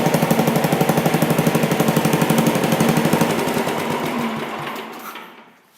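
1966 Sears Suburban 10's single-cylinder Tecumseh HH100 flathead engine running with a rapid, even firing beat, then shut off about three seconds in and coasting down until it stops near the end.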